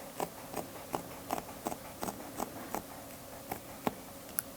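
Wooden hand loom knocking in a steady rhythm, about three sharp knocks a second, as the weaving goes on.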